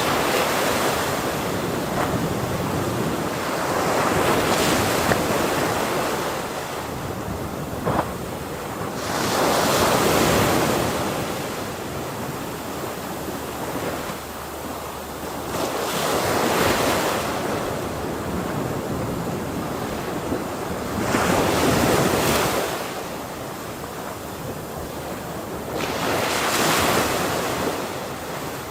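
Ocean waves breaking on a shore, one crash about every five to six seconds, each swelling and then fading into a steady wash of surf.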